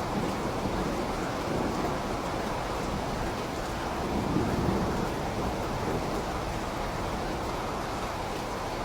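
Steady rain with a low thunder rumble that swells about four seconds in and fades.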